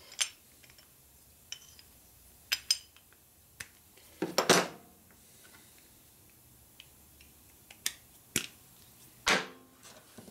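Metal rocker-arm parts from a Harley-Davidson Panhead engine clinking and knocking against each other and the bench as they are handled, in scattered single taps with a short cluster a little over four seconds in.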